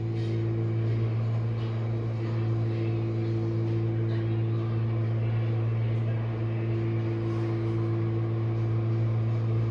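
Jenn-Air dishwasher mid-cycle: the wash pump motor hums steadily at a fixed pitch, with faint irregular swishes of water spray over it.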